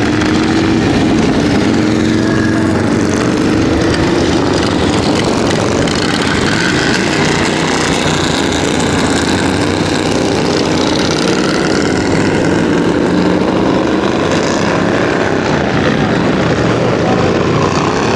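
Motorcycle engines running loud and continuous, their pitch slowly rising and falling.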